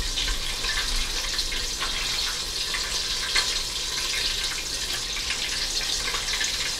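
Chicken frying in hot oil: a steady sizzling hiss with many small crackles.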